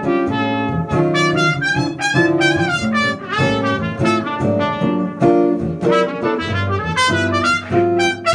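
Jazz trumpet playing a quick, improvised line of short notes over jazz guitar accompaniment.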